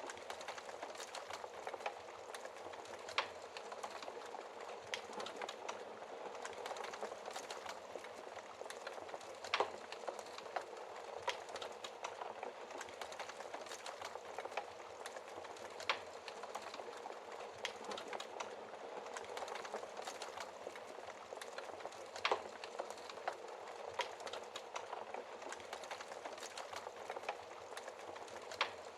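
Wood fire burning with a steady hiss and frequent sharp crackles and pops, a few of them louder than the rest.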